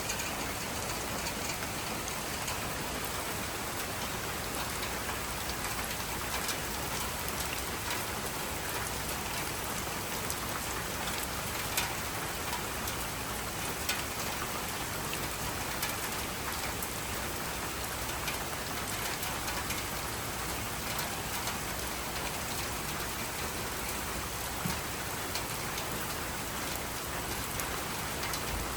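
Steady rain falling: an even hiss with scattered louder drops tapping on a surface.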